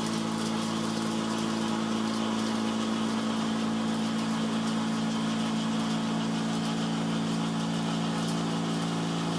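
Portable cotton candy machine running with sugar loaded: its 12-volt DC motor spins the gas-heated spinner head with a steady hum.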